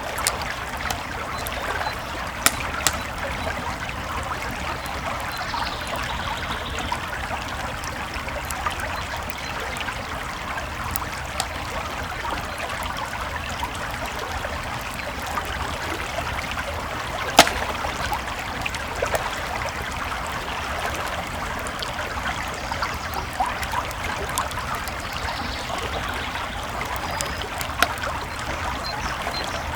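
Creek water flowing steadily, with a campfire crackling and giving occasional sharp pops; the loudest pop comes a little past halfway.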